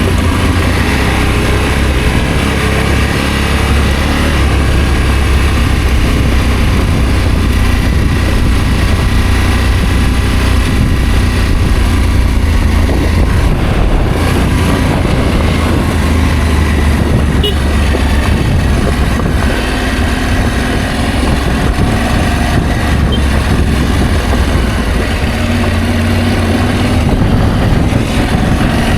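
Adventure motorcycle engine running steadily while riding, with a dense rush of wind and road noise; the engine note shifts, rising near the end.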